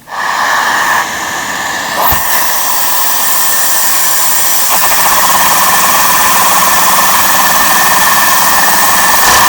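Household vacuum cleaner switched on and running, pretty loud, with a steady hissing whine, sucking air through a LEGO opposed-piston butterfly-valve vacuum engine. A single sharp click comes about two seconds in, and a low hum joins at about five seconds as the engine gets going.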